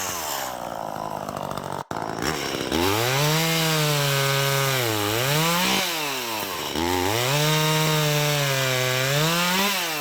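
Two-stroke Echo chainsaw running at high revs while cutting into a large tree trunk, its engine speed sagging and climbing again several times as the chain works through the wood. There is a brief dropout a little before two seconds.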